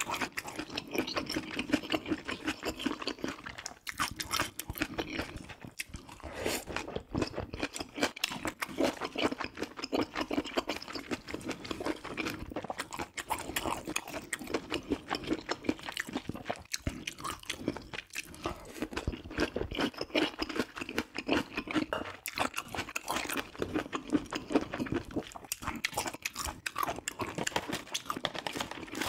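A person chewing food close to the microphone, with many small crunches and bites.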